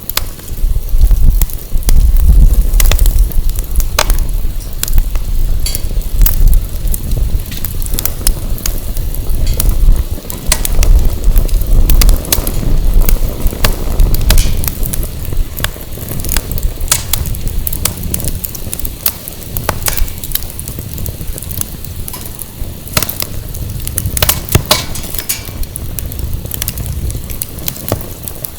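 Firewood burning in a fire pit, crackling and popping with many sharp snaps. Wind buffets the microphone with a low rumble, heaviest through the first half.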